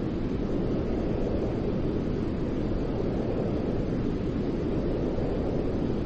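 Continuous white noise: a steady, deep rushing hiss with no changes in level or pitch.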